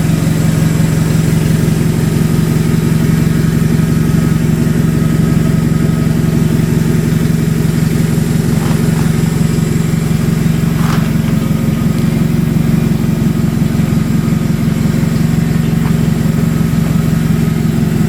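Subaru EJ25 2.5-litre SOHC flat-four engine idling steadily at an even pitch.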